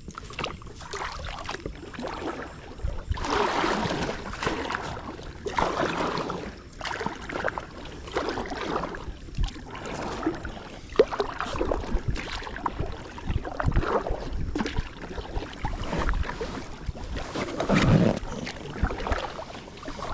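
Paddle strokes splashing in the water beside an inflatable packraft, a swish every two seconds or so.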